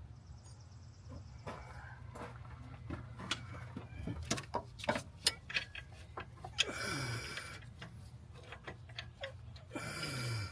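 Hand tools working on metal during an AC compressor removal: irregular clicks and knocks, with two short, louder rasping bursts that each end in a falling tone, one in the middle and one at the end.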